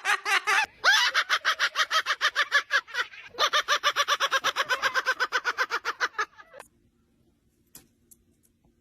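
Parrot imitating laughter: a fast, even cackling of about nine 'ha's a second, in three long runs with short breaks, stopping about two-thirds of the way through.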